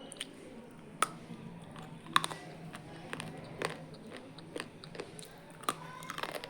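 Close-miked biting and chewing of crunchy noodles: sharp irregular crunches and crackles, the loudest about one and two seconds in.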